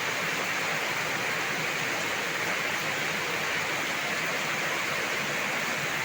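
Heavy tropical downpour, a dense, steady hiss of rain.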